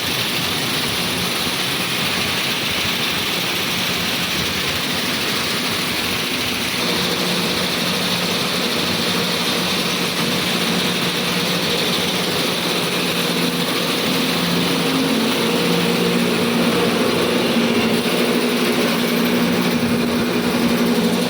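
Tractor engine running steadily, its hum growing a little stronger and louder from about seven seconds in.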